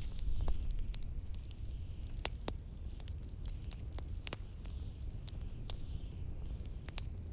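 Wood fire crackling, with irregular sharp pops, over a steady low rumble of blizzard wind.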